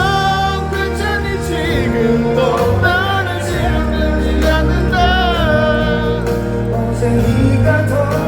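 Live pop ballad played over the stadium sound system: steady band accompaniment with a singing voice carrying long, wavering notes.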